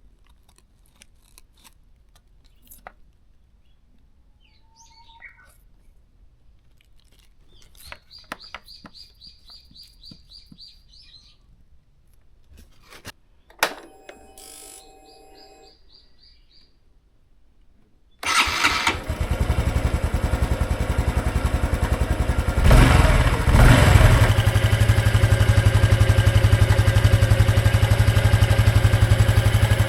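Honda Super Cub 110's air-cooled single-cylinder four-stroke engine, freshly filled with new oil, starting about 18 seconds in after some quiet clicks and short whirs, then idling steadily with a brief rev about five seconds after it catches.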